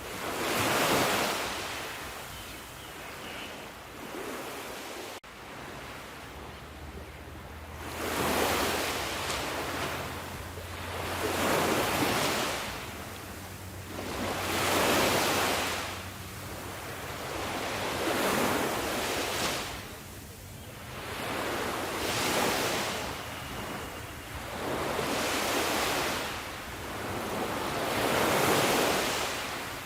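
Ocean waves washing onto the shore, each wave swelling and falling back about every three to four seconds, with a brief break in the sound about five seconds in.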